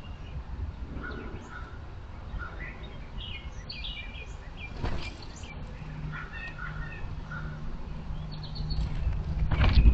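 Small birds chirping with many short, high calls, over a low outdoor rumble. A steady low hum joins in the second half, and a sharp knock sounds just before the end.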